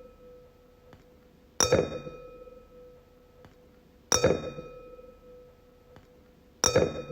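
Wine glass struck three times, about two and a half seconds apart. Each strike is a bright clink followed by a clear ringing tone that fades away.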